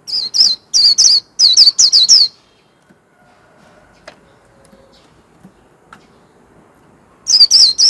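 White-eye singing its 'líu' song: quick runs of high, sharply bending chirps for the first two seconds or so, then a pause with a few faint clicks, and the song starts again near the end.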